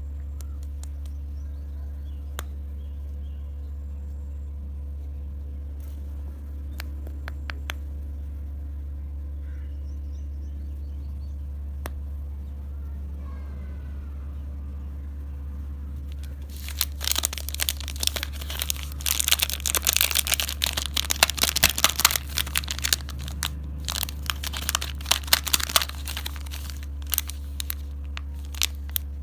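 Plastic candy wrapper crinkling and tearing. It is sparse small clicks at first, then dense and loud from a little past halfway until near the end, over a steady low hum.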